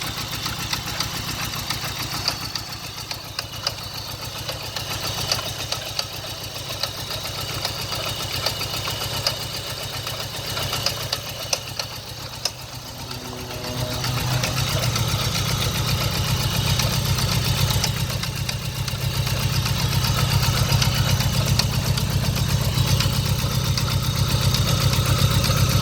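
Engine idling with a steady, rapid knock, getting louder about halfway through, on its first start after sitting over a year. The owner suspects rod knock from spun rod bearings.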